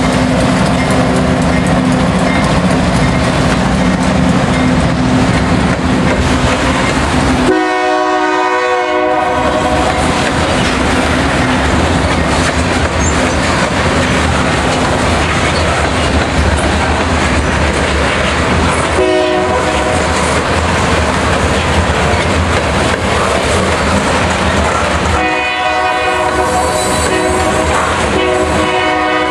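BNSF freight coal train passing close by: diesel locomotives running at first, then coal cars rolling past with steady wheel clatter. A train horn sounds three times, briefly at about 8 and 19 seconds in and longer near the end.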